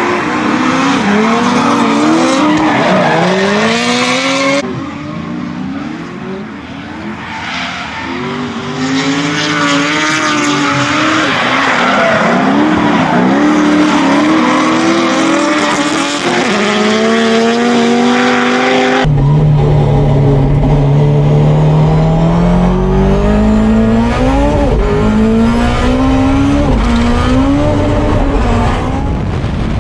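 Honda S2000 drift car's engine revving hard, its pitch climbing and dropping again and again as it is driven sideways, with tyre squeal and skidding. The sound changes abruptly twice, about four and a half seconds in and again near nineteen seconds.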